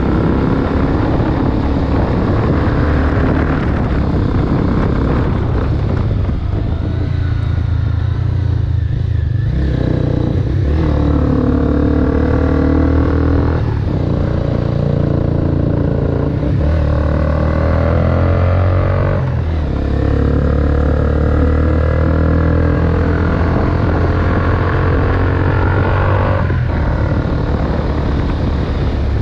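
Honda CBR250R single-cylinder engine running loud through a Delkevic aftermarket exhaust with the dB killer removed, its note changing in stretches of a few seconds broken by short dips.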